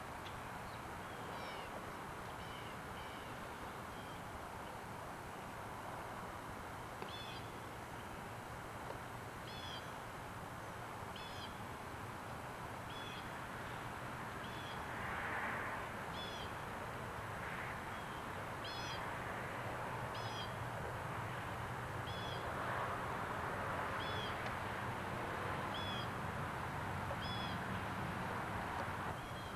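A bird calling over and over, a short high call about every one and a half to two seconds, over a steady outdoor background hiss that swells briefly about halfway through and again later.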